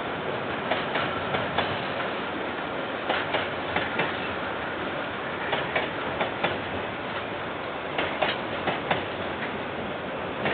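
KiwiRail train's wagons rolling past at steady speed over a continuous rumble. The wheels clack over a rail joint in quick groups of four clicks about every two and a half seconds, as each pair of wagon bogies crosses.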